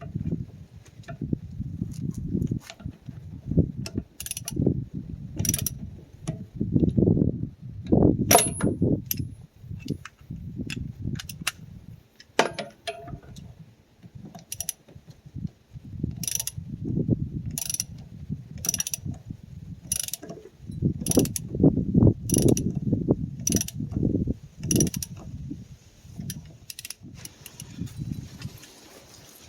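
Ratchet wrench clicking in repeated strokes, about one stroke a second for a stretch, mixed with knocks and handling noise.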